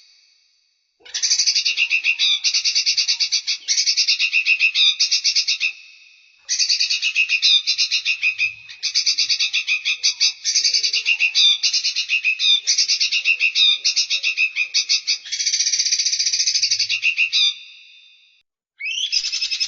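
A songbird singing long, rapid, buzzy trills of fast-repeated high notes, in phrases of several seconds separated by brief pauses.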